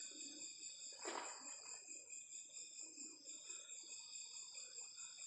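Crickets and other night insects chirring steadily and faintly in several high, even tones, with one short, louder noise about a second in.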